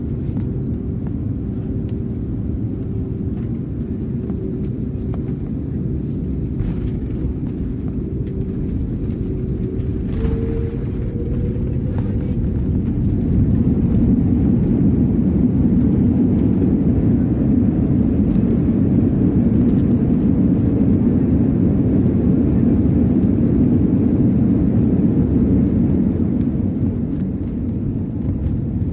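Aeroplane noise during landing: a steady low rumble that grows louder about halfway through, stays loud, and eases slightly near the end.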